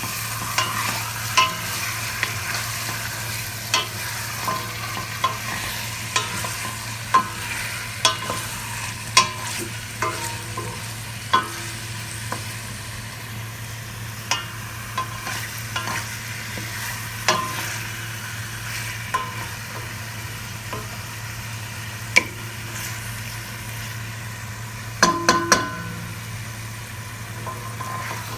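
Food sizzling in a hot pan while it is stirred, with frequent irregular clicks and scrapes of the utensil against the pan and a quick cluster of knocks near the end.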